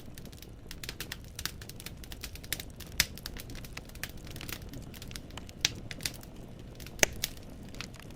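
Wood fire burning in a fireplace, logs crackling with a quick irregular patter of small snaps over a low steady rumble. Sharper pops stand out about three seconds in and again about seven seconds in.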